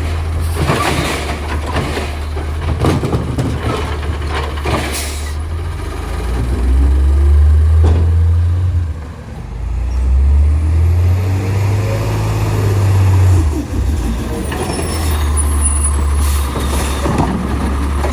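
Autocar Labrie side-load garbage truck running, its engine speeding up twice, around six seconds in and again around ten seconds in, with knocks and clatter in the first few seconds.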